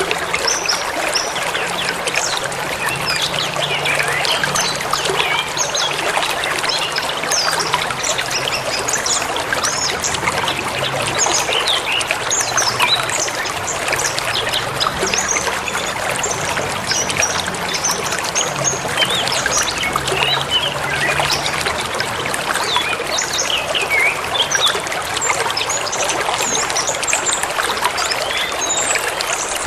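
Forest river flowing steadily, with many small birds chirping over it throughout.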